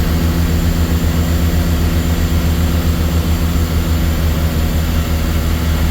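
Steady drone of a DHC-6 Twin Otter floatplane's twin turboprop engines and propellers, heard from inside the cockpit: a constant low hum of several tones over a broad rushing noise.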